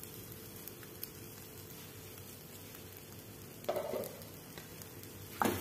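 Chopped capsicum faintly sizzling in oil in an uncovered kadhai on a low gas flame, a steady soft hiss with small crackles. A brief louder knock comes a little under four seconds in, and another just before the end.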